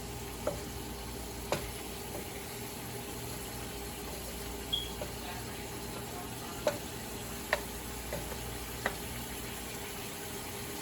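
Bite-sized chicken pieces sizzling in a covered frying pan: a steady frying hiss with a few sharp pops scattered through it.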